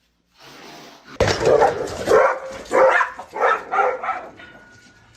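A dog barking, a run of loud barks about one every half second, starting about a second in.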